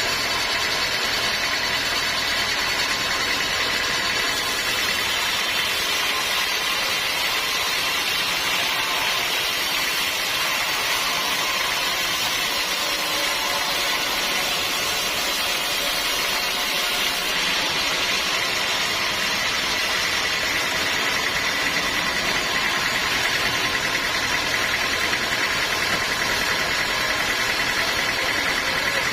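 Sawmill machinery running steadily with a constant mechanical drone and a faint high whine.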